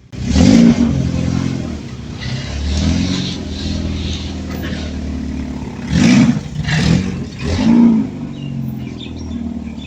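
Fuel-injected 1.9-litre VW engine, heard through a temporary exhaust roughly tacked together with holes in it, running with a throttle blip near the start and three more about a second apart later on, settling back to a steady idle between them.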